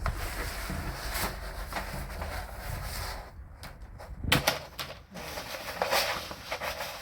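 Portland plotter being handled on a paper chart: scattered clicks and rustling, with a few sharper clicks about four to six seconds in.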